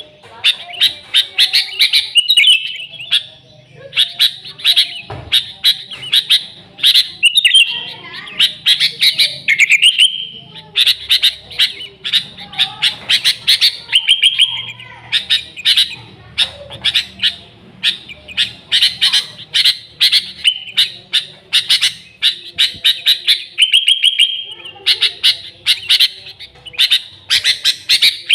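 Sooty-headed bulbul (kutilang) singing busily: rapid bursts of sharp chirps and short warbled phrases, one after another without pause.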